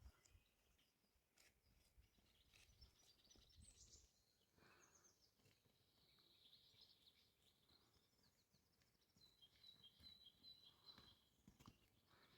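Very faint birdsong: small birds chirping, with a quick repeated trill about two-thirds of the way in, and a few soft knocks.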